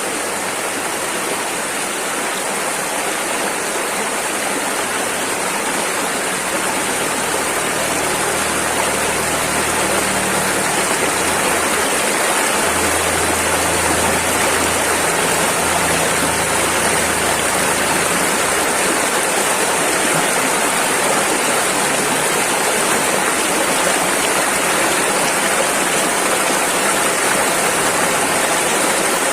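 Rushing river water running steadily, an even, unbroken rush of fast-flowing water.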